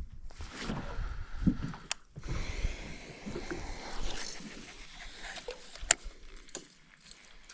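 Small paddle craft being pushed through shallow water: irregular sloshing and scraping, with two sharp knocks about two seconds in and near six seconds.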